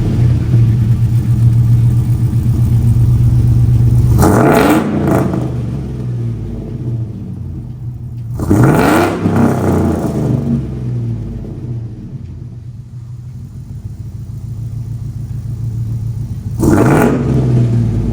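Chevy Silverado engine breathing through long-tube headers, a 3-inch exhaust and Magnaflow mufflers. It runs steady and loud for the first few seconds, then is revved briefly three times, about four seconds in, about nine seconds in and near the end, dropping back to idle between.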